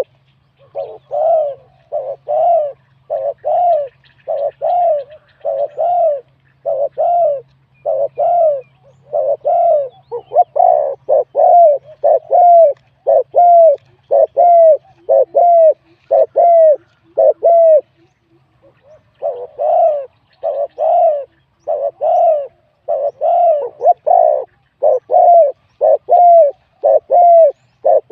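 Spotted dove cooing: a long, rapid run of short repeated coos with a brief break about two-thirds of the way through, after which it resumes.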